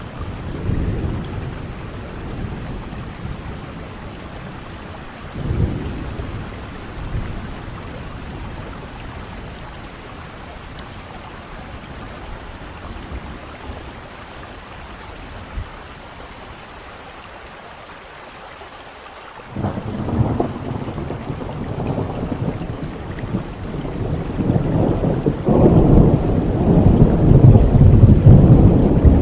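Steady rain falling during a thunderstorm. Brief low rolls of thunder come near the start and about five seconds in. A long roll of thunder begins about twenty seconds in and grows to the loudest point near the end.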